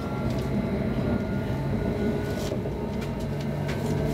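Interior of a moving Helsinki Sm5 (Stadler FLIRT) electric commuter train: a steady rumble of wheels on track with a faint electric whine, and a few sharp clicks from the track as it rolls along.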